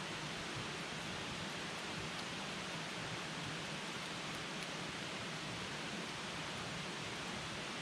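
Campfire burning with a steady hiss and a few faint crackles of the wood.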